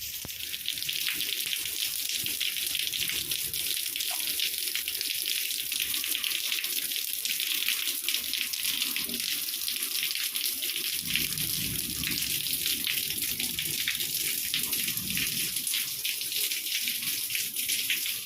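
Steady rain falling, an even hiss without a break, with some low rumbling from about eleven seconds in.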